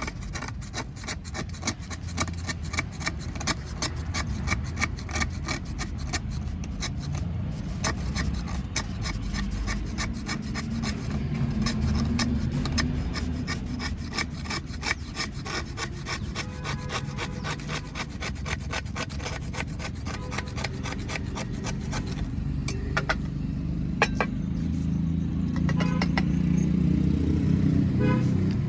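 Fired clay kulhad pieces being crushed and broken, a dense run of rapid crackles and crunches that thins to a few sharp snaps near the end, over a steady low rumble.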